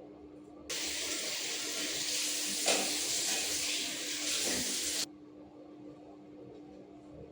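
Water running from a tap, turned on under a second in and shut off about four seconds later.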